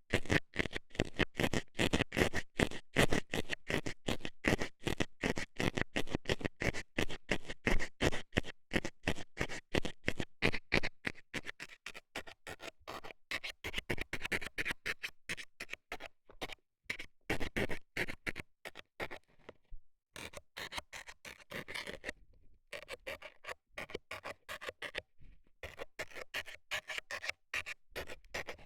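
Metal scaler scratching and scraping in the ear of a binaural ASMR microphone: a dense run of quick, short strokes, with a few brief pauses in the second half.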